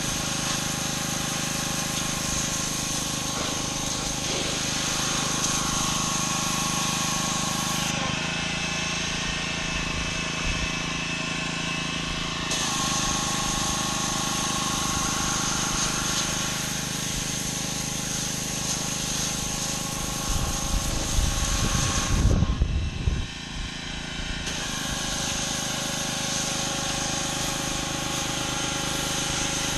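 Gas-engine pressure washer running steadily with the hiss of its high-pressure spray on concrete. The spray hiss drops out for a few seconds twice, about eight seconds in and again a little past twenty seconds, while the engine keeps running. Bursts of low rumbling, the loudest moments, come just before the second pause.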